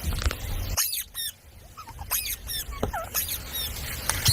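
A parrot making rapid, high-pitched chirps and squeaks, many of them sliding quickly in pitch, with a low rumble under the first second.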